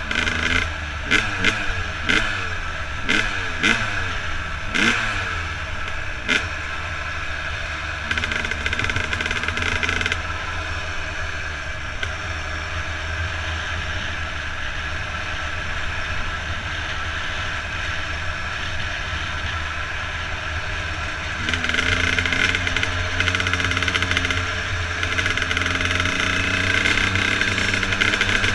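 Dirt bike engine running while riding a gravel road. In the first several seconds its note falls again and again as the throttle closes, with sharp clacks in between; from about 21 seconds in it runs louder and steadier.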